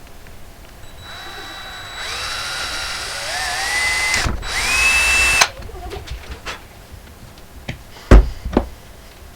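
Electric drill running for about four seconds, its whine rising in pitch, breaking off for a moment and coming back higher before stopping abruptly, as in drilling holes in dash trim. Two sharp knocks follow near the end.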